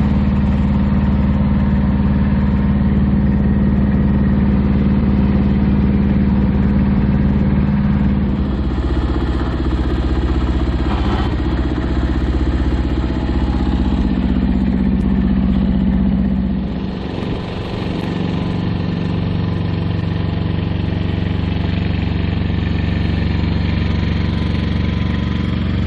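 Mini tractor engine running steadily as the tractor is driven. Its note changes at about 8 seconds in and again at about 17 seconds in, as engine speed or load shifts.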